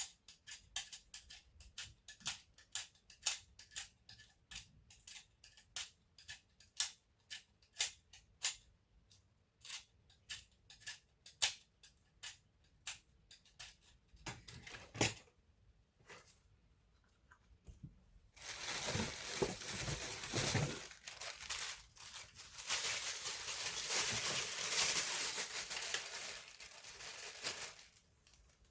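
A quick series of small sharp clicks, two or three a second, from hands handling laptop parts. About two-thirds in, these give way to two stretches of steady scratchy rubbing noise with a short break between them.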